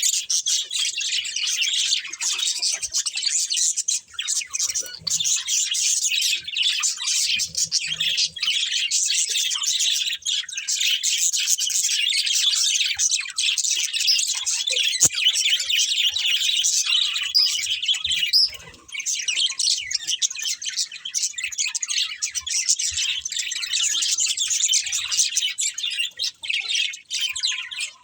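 Several budgerigars chirping in a continuous high-pitched chatter, with a brief lull about two-thirds of the way through.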